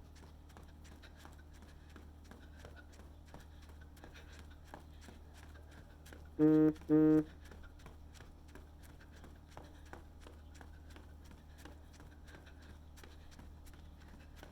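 Steady footfalls of a runner, with two loud, short horn-like honks, each about half a second long, a little after the middle.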